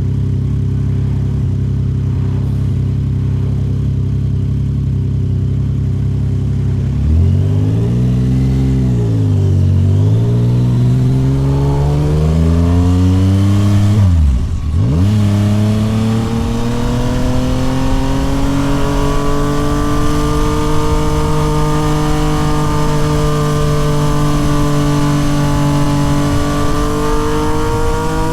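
Yamaha MT-09 SP's 890 cc inline-three, breathing through a Toce full exhaust, running at steady revs, then pulling away with the revs rising and falling twice. About halfway through the revs drop sharply and briefly, then climb slowly and steadily to the end.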